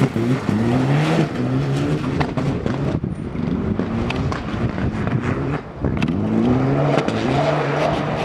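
Rally car engine accelerating hard on gravel, revs climbing and dropping again and again as it shifts up through the gears, with a few sharp cracks.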